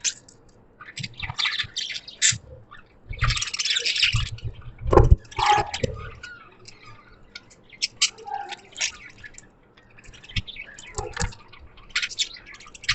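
Budgerigars chirping and chattering in short irregular bursts of high-pitched calls, with a couple of low knocks about three and five seconds in.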